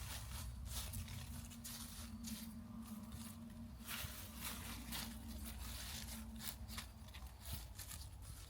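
Crisp, irregular crackling and rustling of mulberry leaves, the sound of silkworms being fed. A faint steady hum runs underneath and stops about two-thirds of the way through.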